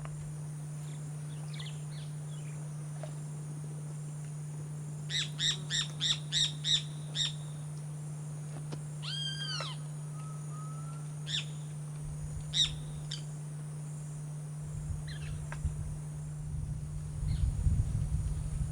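Birds calling: a quick series of about seven even notes, then a single drawn-out arched call and a few scattered chirps, over a steady low hum.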